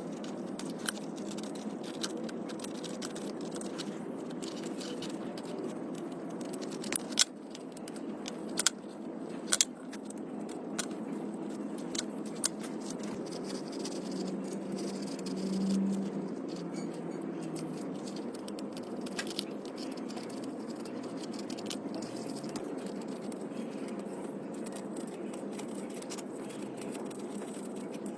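Scattered light clicks, taps and rattles, like small parts and hand tools being handled, over a steady low hum. A louder hum swells briefly about fifteen seconds in.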